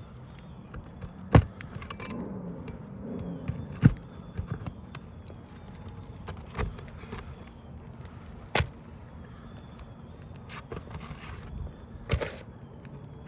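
Scattered sharp knocks and taps, five or so a couple of seconds apart, with light scraping and rattling between them: tools and building materials being handled during exterior repair work.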